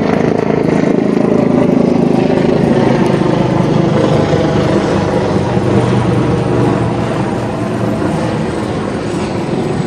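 Small boat engine, most likely an outboard motor, running steadily at speed with a fast, even beat; it eases off a little near the end.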